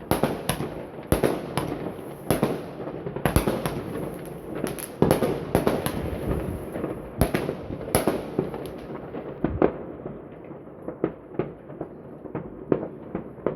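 Consumer fireworks exploding in a rapid string of overlapping bangs over steady crackling. After about nine seconds the bangs thin out into fainter, duller pops.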